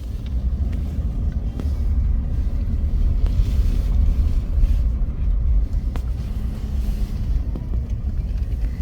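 A car driving, heard as a steady low rumble, with a few faint clicks.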